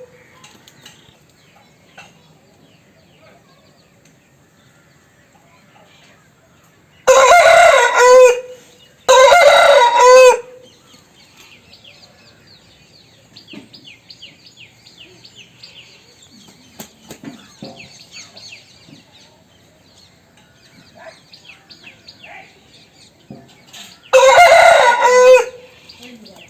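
Asil rooster crowing three times: two crows close together, then a third after a long gap. Faint high chirping in between.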